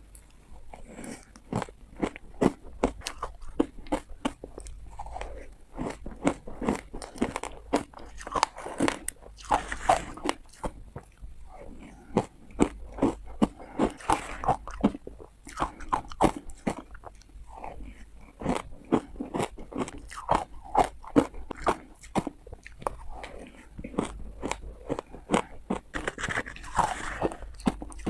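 Close-miked ice being bitten and crunched: a rapid run of sharp cracks and crunches, coming in clusters with short pauses between bites.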